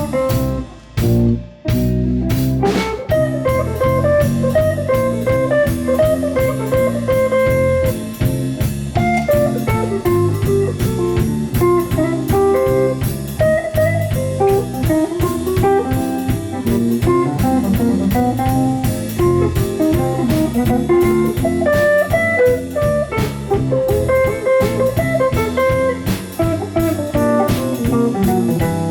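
A live jazz ensemble playing a blues-flavoured number with a steady beat, with a couple of short breaks about a second in.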